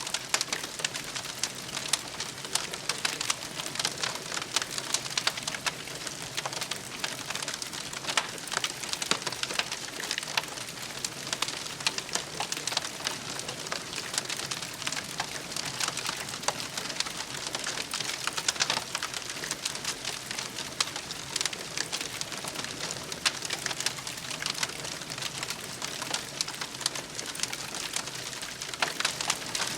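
Wood campfire burning, with a steady crackle of many small sharp pops and snaps over a soft hiss.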